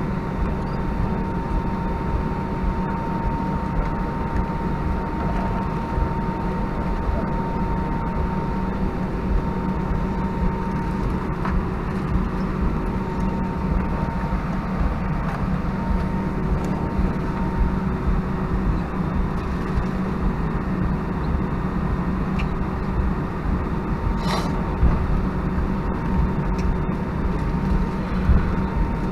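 Cabin noise of an Airbus A319-131 taxiing, heard from a window seat: a steady hum and rumble from its idling IAE V2500 engines, with two faint steady tones. A single short tick comes about 24 seconds in.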